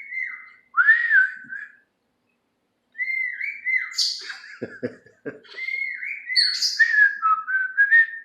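Pet bird whistling: phrases of sliding whistles held near one pitch, mixed with sharp higher chirps, in three bursts with short gaps between them. A few soft low knocks come about five seconds in.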